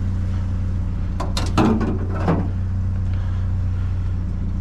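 Small pickup truck's engine running, heard as a steady low drone from inside the cab, with a few quick clicks and knocks about a second and a half in.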